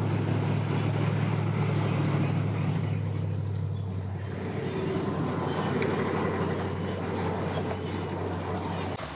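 An engine running steadily with a low, even hum, easing slightly about halfway through.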